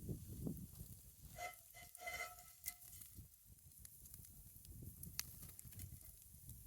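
Campfire crackling with a faint sizzle from pancakes frying in a cast iron skillet over the fire. About a second and a half in there is a brief high tone lasting under a second.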